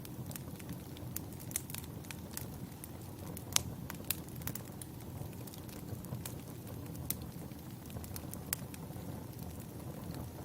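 Burning firewood crackling: a steady low rumble with scattered sharp pops, the loudest two coming about three and a half and four seconds in.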